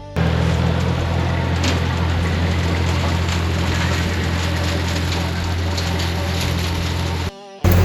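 Tractor engine running steadily under work, with scattered cracks and clatter over it; the sound drops out briefly near the end.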